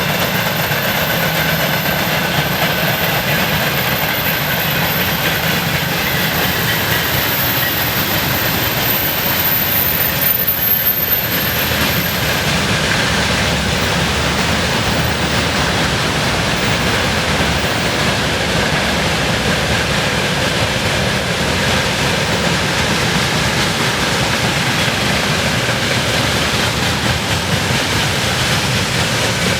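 Freight train's wagons rolling past on the rails, a steady loud rumble of wheels and cars.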